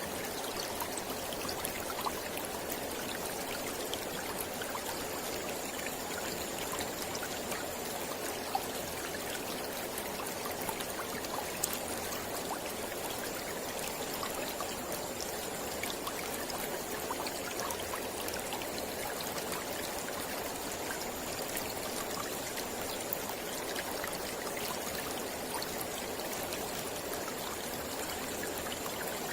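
Mountain river flowing over rocks: a steady rush of water with small splashes and trickles throughout.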